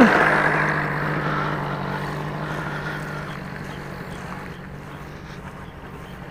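Two-stroke OS .46 AX glow engine of an RC sport plane in flight, dropping in pitch at the start as it passes and then fading steadily as it flies away.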